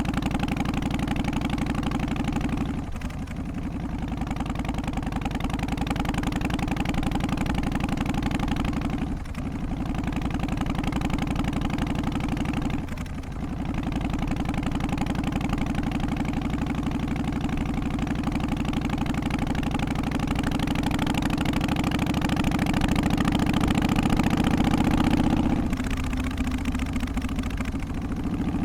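Harley-Davidson Twin Cam 88 Softail's V-twin engine running steadily, its sound briefly dipping three times and dropping off near the end.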